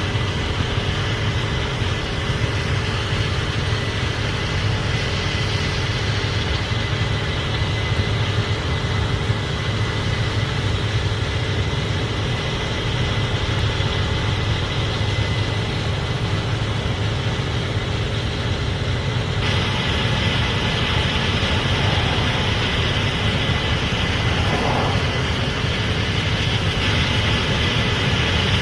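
Case IH Axial-Flow 8250 combine running steadily: a deep engine drone with a faint steady whine above it. About two-thirds of the way through the sound changes abruptly, the upper hiss turning brighter.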